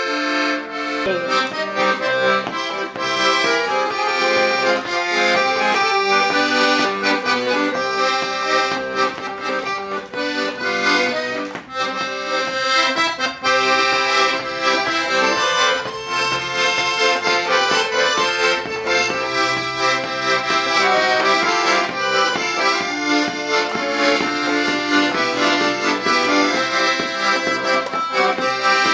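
Accordion playing a tune, a melody over full reed chords. A held chord gives way to the tune about a second in.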